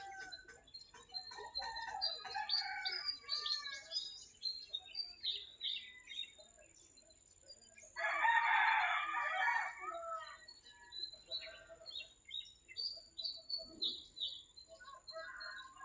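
Small birds chirping throughout, with a rooster crowing once, about eight seconds in, lasting about two seconds and the loudest sound.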